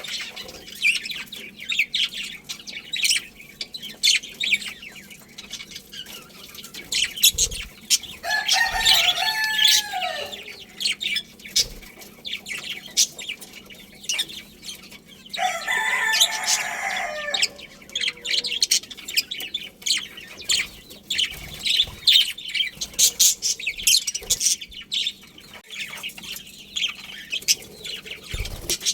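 A colony of budgerigars chirping and chattering continuously in rapid, high calls. Twice, about 8 and 15 seconds in, a longer, lower call of about two seconds rises above the chatter.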